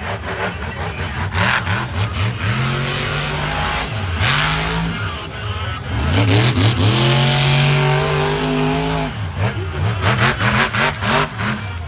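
Monster truck's supercharged V8 revving hard, its pitch climbing and dropping several times, with one long pull held for a couple of seconds and then quick throttle blips near the end.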